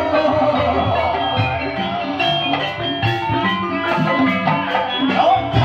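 Live ebeg dangdut-kreasi accompaniment: gamelan-style tuned metal percussion playing a melody over hand drums in a steady rhythm.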